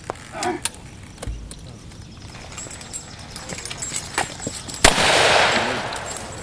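A single loud gunshot about five seconds in, with a long echoing tail that fades over a second or so, after a few small clicks and knocks.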